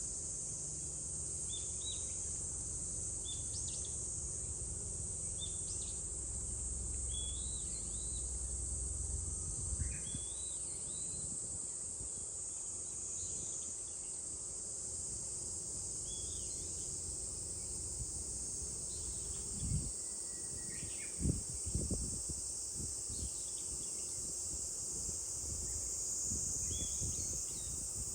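A steady high drone of a summer cicada chorus, with a small bird's short chirping calls repeated every second or two. A few low thuds come about two-thirds of the way through.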